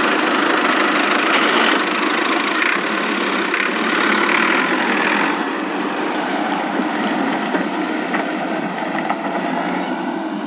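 Mini chaff cutter's motor running steadily: an even, dense machine noise with a few faint clicks.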